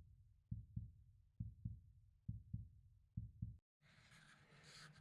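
Heartbeat sound effect: low double thumps (lub-dub) repeating a little faster than once a second, cutting off abruptly about three and a half seconds in, followed by faint room hiss.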